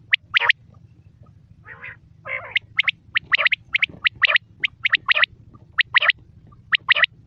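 Quail calling: short, sharp, high notes repeated in quick groups of two or three, with two lower, rasping notes about two seconds in.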